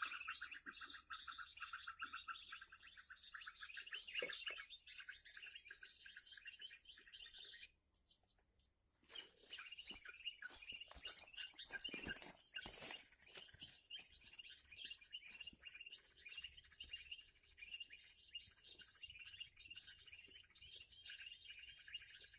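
Recorded perenjak kepala merah lure call played through a cheap, tinny speaker: dense, rapid, repeating high chirps that cut off abruptly about eight seconds in and start again a second later.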